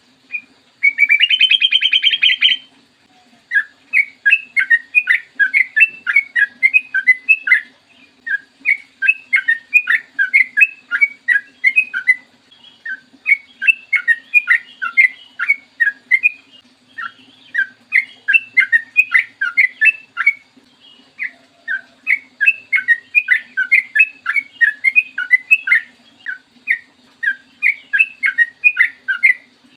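Yellow-vented bulbul (trucukan) singing quick runs of short chirping notes, in bouts of a few seconds broken by brief pauses. About a second in there is a loud, harsh buzzy burst. A faint steady low hum runs underneath.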